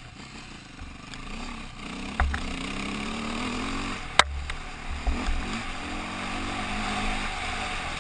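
KTM motorcycle engine running on the move, its pitch shifting as the revs change, with wind buffeting the microphone. A single sharp click about four seconds in.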